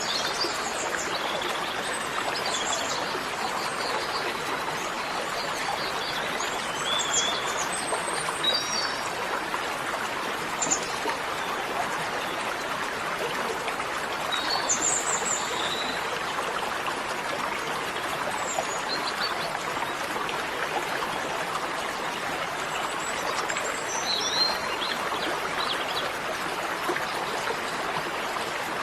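Steady rush of running water, like a stream, with small birds chirping and warbling every few seconds.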